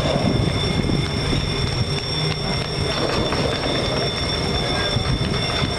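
A train passing close by a railroad crossing: a dense, continuous rumble. Over it run steady high-pitched tones from the crossing's warning signal.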